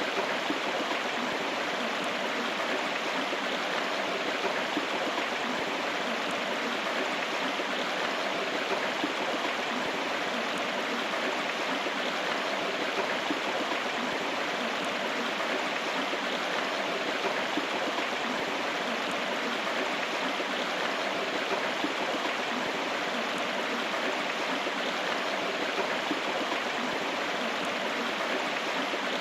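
River water rushing and burbling steadily over rocks, a continuous even wash of sound.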